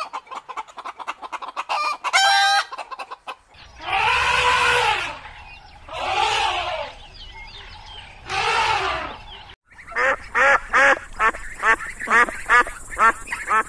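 Chickens clucking with one drawn-out hen call, then an elephant giving three long rising-and-falling calls, each about a second, over a low rumble; after a short break, domestic geese honking in quick succession, about three honks a second.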